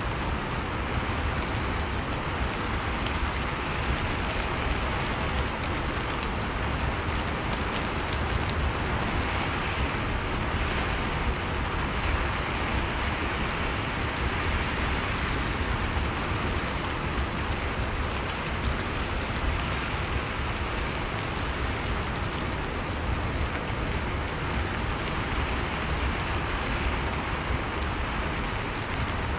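Steady rain falling, an even hiss of drops on surfaces with a deep low rumble underneath, unchanging throughout.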